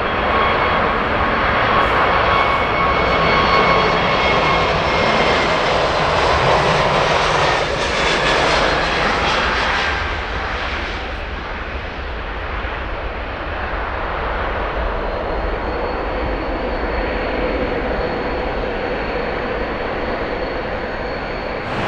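Jet airliner's engines at takeoff power as the aircraft passes, a rushing noise with high engine whine on top. It is loudest in the first half, about eight seconds in, then eases to a weaker steady rush.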